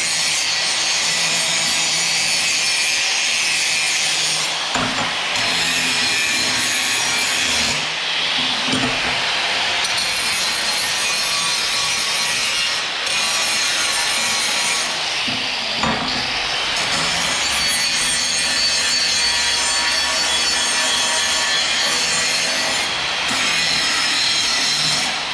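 Angle grinder cleaning a spot on old steel down to bare metal: a steady, loud grinding hiss that dips briefly a few times as the tool is eased off and set back on.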